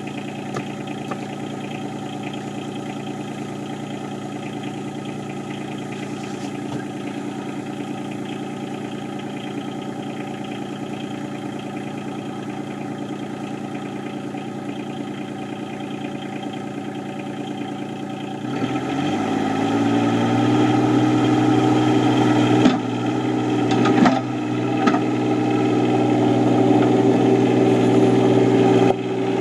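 A Yanmar SC2450 compact tractor's diesel engine idles steadily, then is throttled up about two-thirds of the way in and keeps running louder and faster. A couple of short clunks come over the engine near the end.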